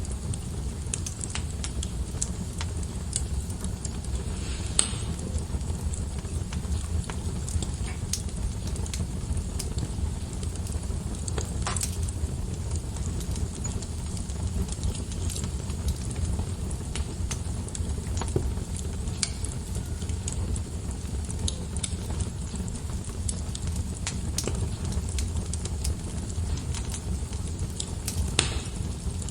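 Wood fire crackling in a fireplace: a steady low rumble of the flames with a constant patter of small crackles and a few louder, sharper pops scattered through.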